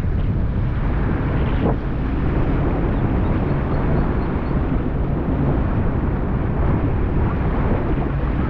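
Jet ski engine running steadily under way, with wind noise on the microphone.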